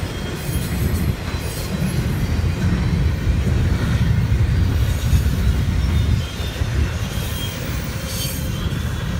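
Double-stack intermodal freight cars rolling past on the main line: a steady low rumble of steel wheels on rail, with a faint wheel squeal at times.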